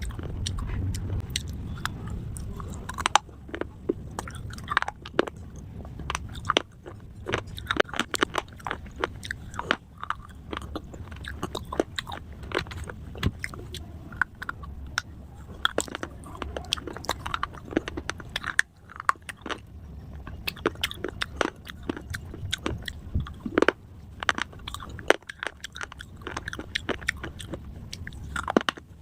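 Close-up crunching as hard, brittle slate pieces (cubes and bars) are bitten and chewed: dense, irregular sharp cracks and crackles, with grinding chewing between bites.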